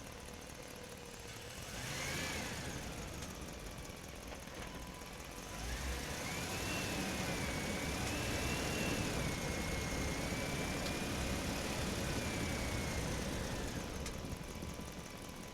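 A motor running with a high, wavering whine: a short rise and fall about two seconds in, then a louder, longer run from about six seconds in that stops shortly before the end.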